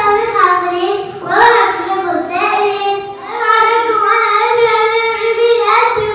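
A child singing unaccompanied in one high, clear voice, holding long notes that waver slightly in pitch.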